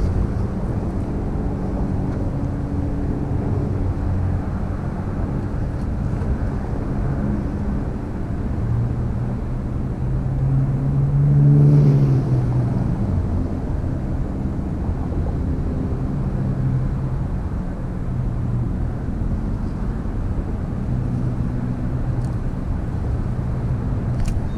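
Steady low rumble of motor-vehicle noise, with one engine swelling louder about halfway through and then fading as it passes.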